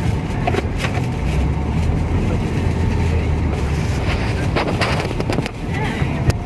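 Steady low rumble of a vehicle engine running, with a few short knocks near the end and faint voices in the background.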